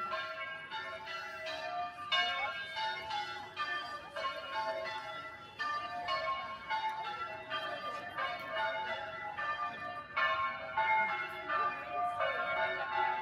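Church bells being rung in changes: a continuous, even sequence of bell strokes, several a second, each ringing on into the next.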